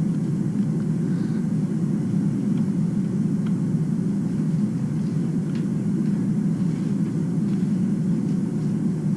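Steady low background rumble, even and unchanging, with a few faint ticks.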